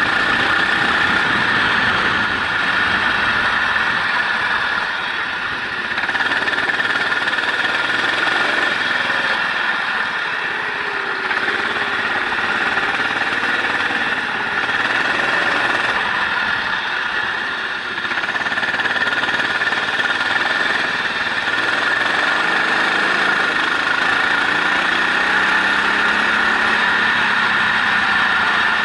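Racing vehicle engine heard onboard during a lap, its pitch rising and falling as it accelerates and shifts, over a steady high whine. The sound drops briefly twice, about six seconds in and again near the middle, as the throttle comes off.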